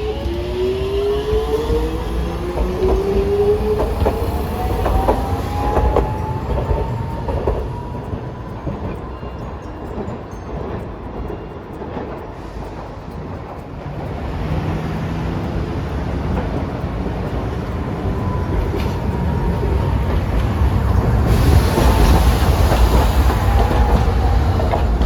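Hiroshima Electric Railway streetcar running past: the traction motors' whine rises in pitch as it pulls away, then falls again near the end as it slows, over a steady rumble of wheels on rail.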